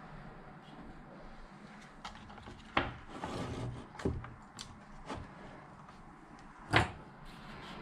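A few scattered knocks and clicks of parts and tools being handled on a workbench, with two louder knocks about three seconds in and near the end.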